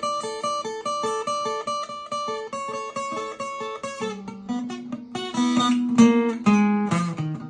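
Guitar music: a repeating picked pattern of single notes, turning to lower, fuller and louder chords about halfway through.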